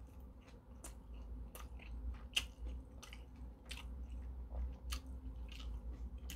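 A man chewing a mouthful of food with his lips closed: quiet, irregular smacking clicks about once a second.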